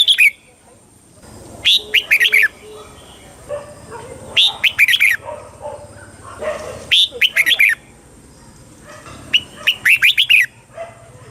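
Red-whiskered bulbul singing: a short, loud phrase of quick whistled notes, repeated about every two and a half seconds, with softer notes in between.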